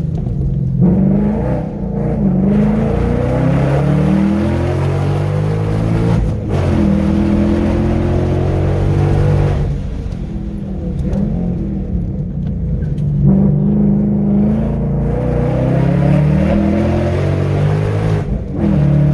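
A 2019 Ford Mustang GT's 5.0-litre V8, heard from inside the cabin, accelerating hard up a hill course. The engine note climbs in pitch again and again and drops off sharply each time the driver lifts or changes gear, clearest about six seconds in and again near ten and eighteen seconds.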